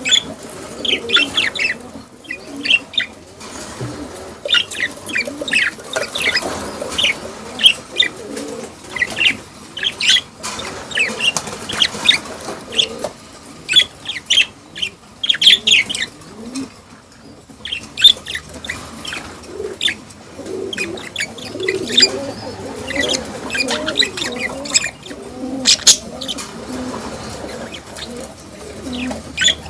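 A group of budgerigars chirping and chattering in a busy, continuous stream of short, sharp chirps, over a lower wavering sound.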